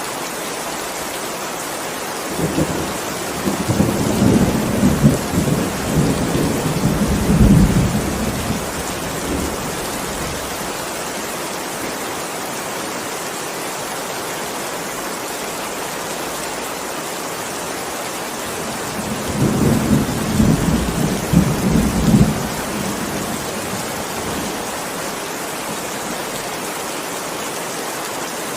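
Steady heavy rain with two rolls of thunder: a long rumble starting about two seconds in and lasting some seven seconds, and a shorter one about two-thirds of the way through.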